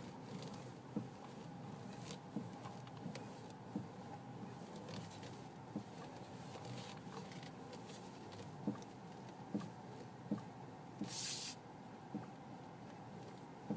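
Irregular dull knocks from a BMW X3 F25, about one a second over a steady background hum, which the owner suspects come from the steering rack. A short hiss about eleven seconds in.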